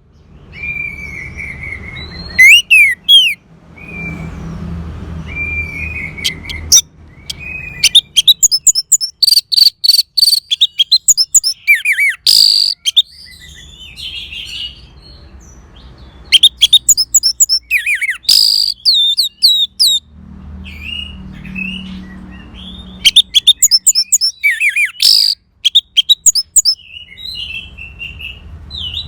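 Orange-headed thrush singing: a long, varied song of loud whistled notes and quick, chattering phrases full of rapid pitch sweeps, broken by short pauses.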